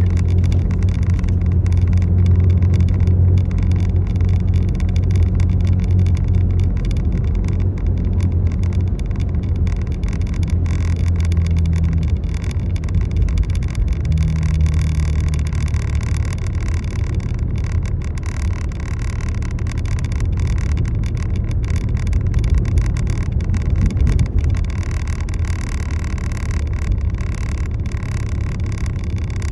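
Motor vehicle running steadily, a low engine and road drone with an even hiss over it.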